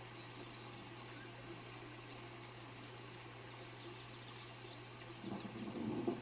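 Steady rain hiss over a low hum. About five seconds in, a louder low rumble comes in and keeps going.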